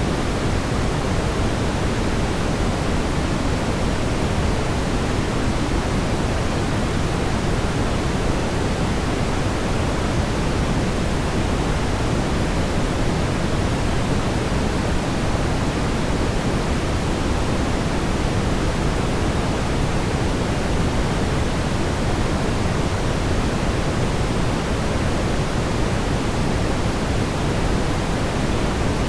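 Steady brown noise: a constant, even rumbling hiss with most of its energy low down.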